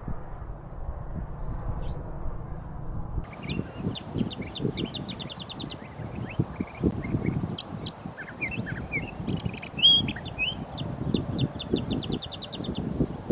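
Small birds calling: two long runs of rapid, evenly repeated sharp notes, with scattered chirps between them, over a low rumbling noise.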